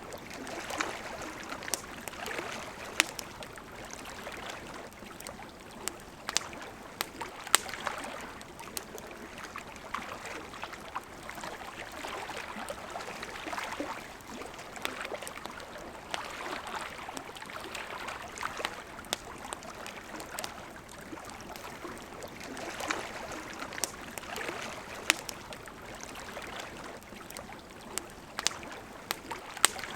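A wood campfire crackling, with irregular sharp pops, over the steady rush of a flowing river that swells and eases every few seconds.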